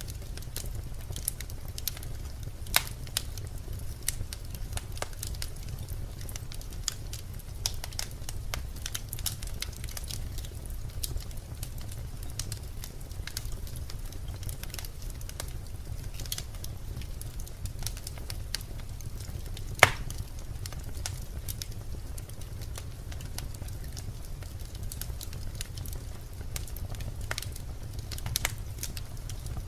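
Birch logs burning in a fireplace: a steady low rumble of flames with frequent sharp crackles and pops, the loudest pop about twenty seconds in.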